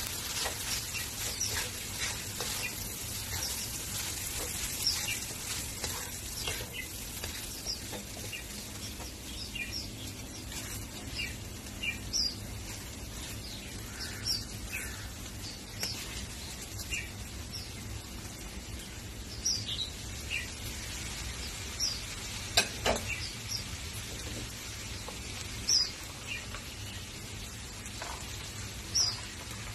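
Stir-fried noodles sizzling steadily in a hot wok, with short high bird chirps scattered throughout and a single sharp knock about two-thirds of the way through.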